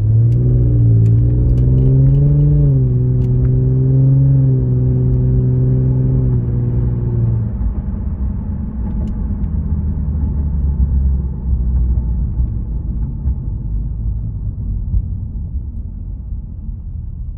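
Cabin sound of a 2015 Lexus RC350 F Sport's 3.5-litre V6 breathing through a Remark axle-back muffler, heard with the windows up as the car accelerates: a strong steady exhaust note for about seven seconds, then easing off into a low rumble that slowly fades as the car cruises.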